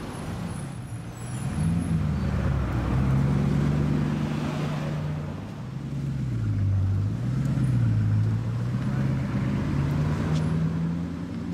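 Bugatti Chiron's quad-turbocharged 8.0-litre W16 engine running at low revs as the car drives off slowly, a low drone that rises, dips and climbs again in pitch with the throttle.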